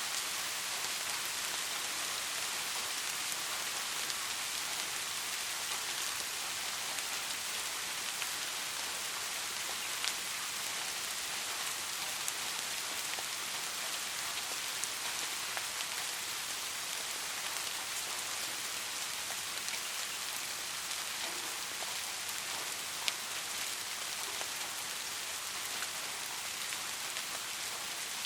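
Steady rain falling on a surface: an even hiss with scattered individual drop ticks.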